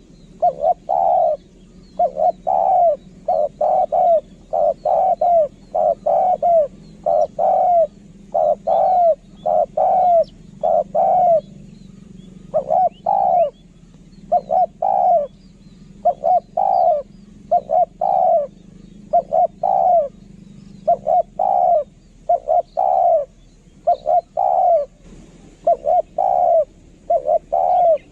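Spotted dove cooing in a long, unbroken series of short, curving coos, about two a second, the kind of call played to lure wild spotted doves.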